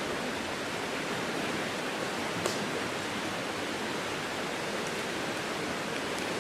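Steady rush of running water from Minnehaha Creek, with one faint click about two and a half seconds in.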